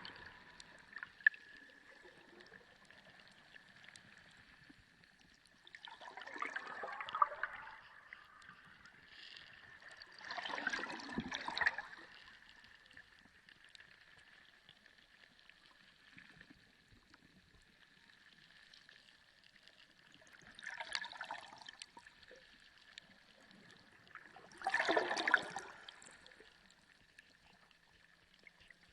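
Underwater sea ambience: four swells of rushing, gurgling water, each a second or two long and a few seconds apart, over a faint steady high tone.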